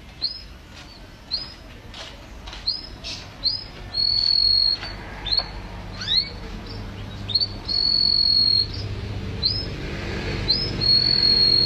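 Canary singing: short sharply rising chirps, repeated, broken by three long level whistles of about a second each, a faint low hum underneath.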